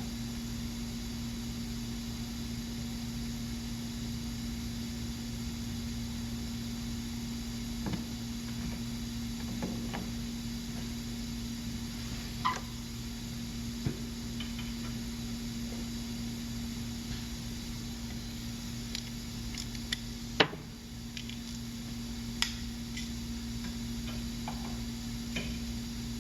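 Steady background hum with scattered clicks and knocks of tools being handled. One sharp knock about twenty seconds in is the loudest.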